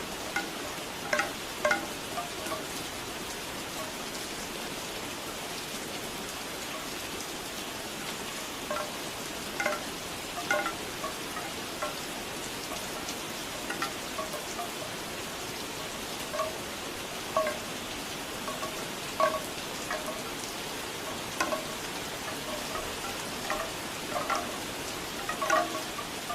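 Steady rain with bamboo wind chimes clacking now and then, in small clusters of hollow knocks.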